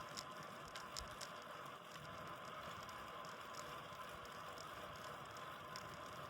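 Steady hiss of a bicycle rolling along, tyre and wind noise picked up by a phone mounted on the bike, with scattered light clicks and rattles from the bike and mount.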